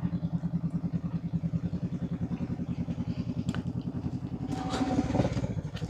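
Parallel-twin motorcycle engine running at low revs with a steady, even pulse, as at idle or walking pace.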